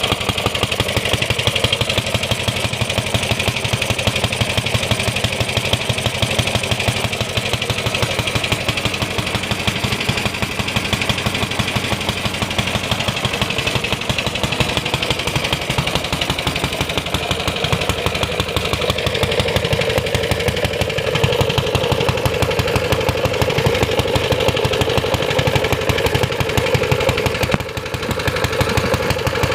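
Briggs & Stratton Model FH single-cylinder engine running steadily after a cold start, a fast, even, continuous popping from its exhaust, with a brief dip in loudness near the end.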